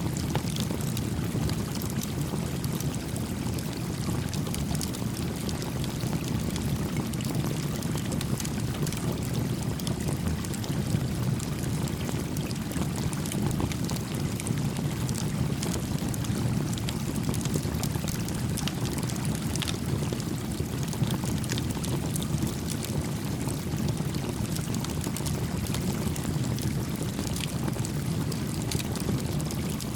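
A small brook flowing steadily, with a small wood campfire crackling over it in many faint, scattered pops.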